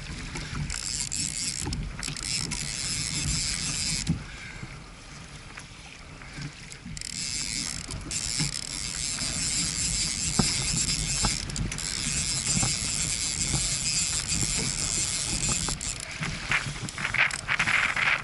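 Water sloshing around a kayak hull with wind on the microphone, a steady hiss with a few light knocks, dropping quieter for a few seconds and rising again near the end.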